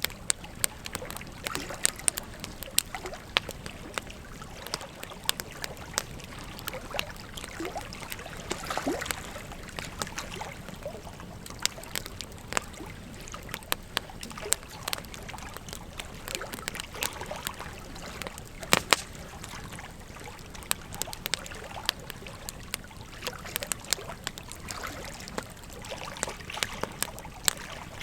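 Wood fire crackling, with irregular sharp pops and snaps, a few louder, over the steady rush of a flowing river.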